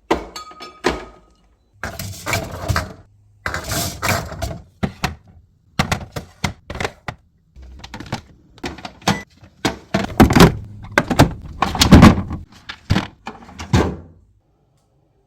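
Irregular knocks, thunks and clatter of plastic food-storage containers being handled and set down in a refrigerator, with the loudest knocks around ten and twelve seconds in; it stops about a second before the end.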